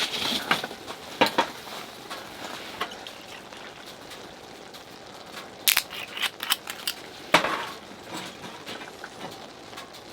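Scattered clinks and knocks of glasses and tableware being handled, with a louder knock about seven seconds in.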